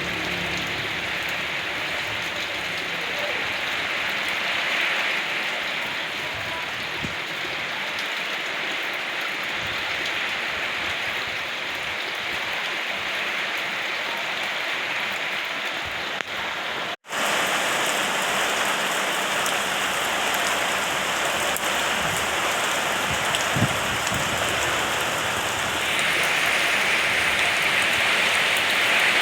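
Steady rain falling, an even hiss of drops. It breaks off for an instant about seventeen seconds in, then goes on a little louder.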